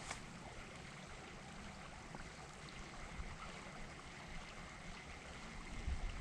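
Faint, steady rush of flowing river water, with a few soft low bumps near the end.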